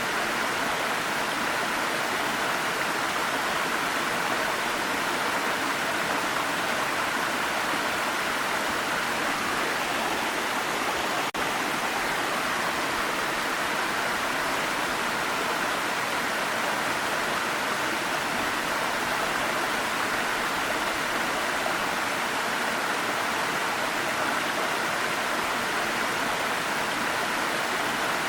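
Waterfall's water rushing in a steady, even roar, with one momentary dip about eleven seconds in.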